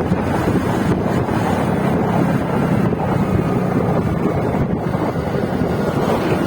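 Wind buffeting the microphone over a steady low rumble, with a faint engine-like hum underneath.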